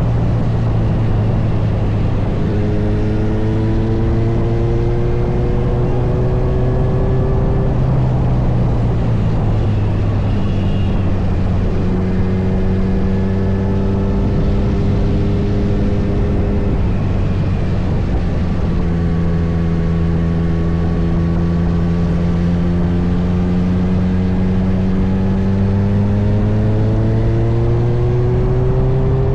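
Kawasaki Z900's inline-four engine running on the move, its note climbing slowly through three long pulls with breaks between them, over a steady rush of wind and road noise.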